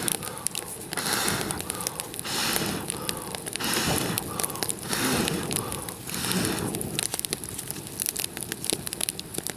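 Small campfire of dry, resinous spruce and fir twigs crackling with sharp pops, with about six separate hissing whooshes at intervals of roughly a second and a half in the first seven seconds.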